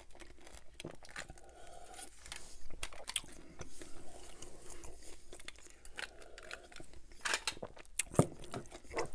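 Close-miked eating sounds: a man chewing and swallowing, with a sip from a glass of iced soda. A sharp knock near the end is the loudest sound.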